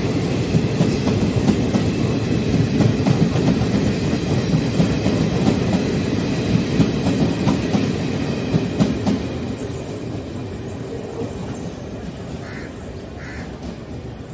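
Passenger train coaches rolling past at close range: a steady rumble with wheels clattering over the rail joints. The sound fades over the last few seconds as the end of the train pulls away.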